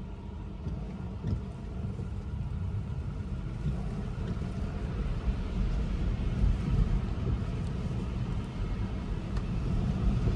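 Road and tyre noise inside a Tesla Model 3's cabin while driving on a wet, slushy road: a steady low rumble that grows gradually louder, with no engine note.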